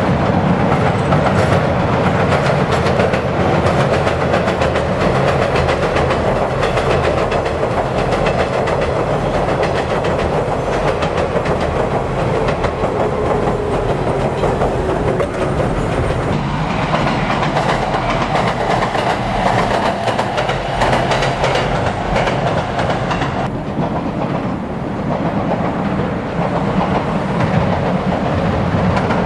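JR 115 series electric train crossing a steel girder railway bridge: a loud, steady rumble with the wheels clattering over the rail joints. The clatter eases off about 23 seconds in.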